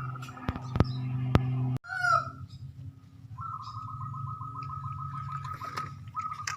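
A bird's long trilling call, repeated near the end. It is preceded by a few sharp clicks over a low steady hum.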